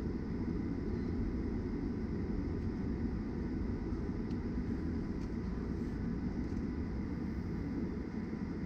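Steady low rumble inside the cabin of a Boeing 737-900ER taxiing, its CFM56-7B engines at low taxi thrust, with a faint steady whine above the rumble.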